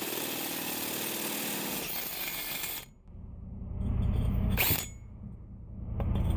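DeWalt electric drill running as it bores through steel plate with a large twist bit. About three seconds in it stops suddenly, then starts again in shorter, lower-pitched runs.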